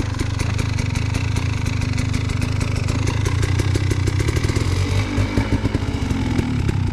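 KTM 300 two-stroke dirt bike engine running, with the rapid crackle of its firing pulses. Its note shifts about two thirds of the way through. The SmartCarb-fitted engine is running without flooding.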